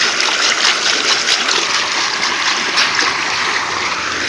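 Running water close by: a steady rush with many small splashes.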